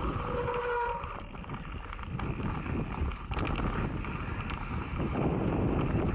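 Wind buffeting the microphone while a mountain bike rolls fast down a loose, rocky dirt trail, with scattered knocks and rattles from the bike over the rocks. A brief pitched tone sounds about half a second in.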